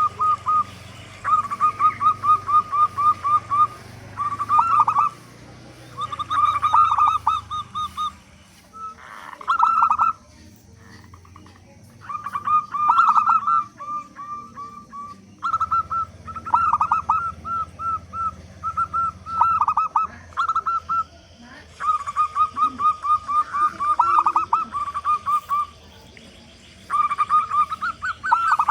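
Zebra doves (perkutut) cooing: repeated phrases of quick, rapidly repeated notes, each phrase lasting one to two seconds, with short pauses between them and sometimes overlapping.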